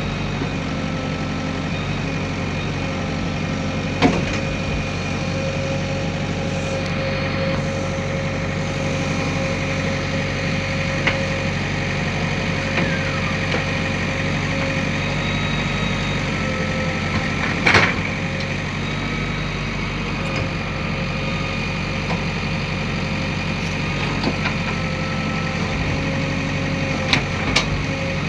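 JCB backhoe loader's diesel engine running steadily while digging and loading, with a few sharp knocks over it, the loudest about two-thirds of the way through and a quick pair near the end.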